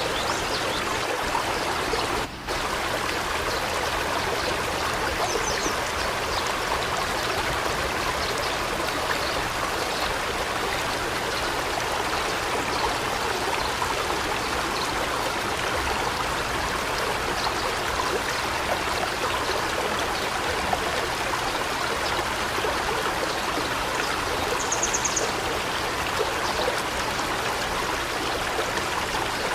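Steady rush of water noise, a forest rain or running-water ambience, with a momentary dropout about two seconds in. A few faint high bird chirps come through, the clearest near the end.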